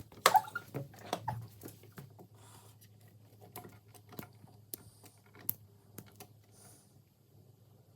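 A cat's paws pattering and tapping on a hard surface, a quick flurry of sharp taps and scuffs at first, then scattered single clicks.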